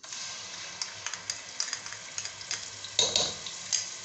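Ginger-garlic paste sizzling in hot cooking oil, starting suddenly as it drops in, a steady hiss with sharp crackles and pops, loudest about three seconds in.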